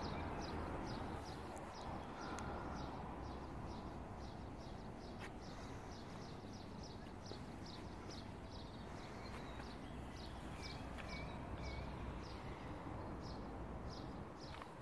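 A small bird chirping over and over, about two or three short high chirps a second, over a steady low background rumble.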